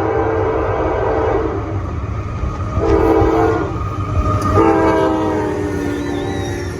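Locomotive multi-chime air horn sounding over the steady rumble of a passing train. A blast ends about a second and a half in, a short blast comes around three seconds, and a longer blast starts about four and a half seconds in, its pitch sagging slightly toward the end.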